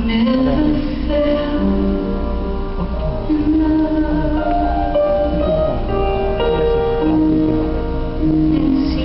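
Live band music: a slow ballad passage with held melody notes over a steady bass.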